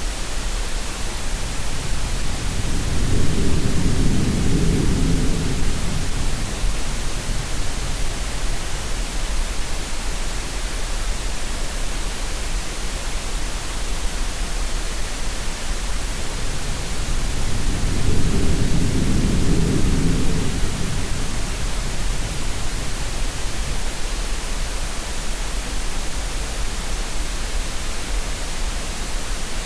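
Steady green noise hiss with sea sounds: a low surge swells and fades twice, about fifteen seconds apart.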